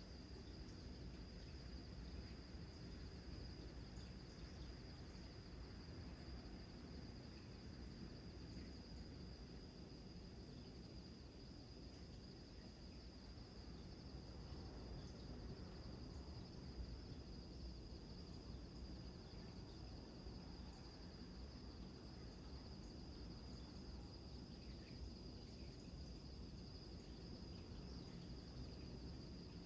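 Faint, steady high-pitched trilling of crickets in two pitch bands, over a low steady rumble.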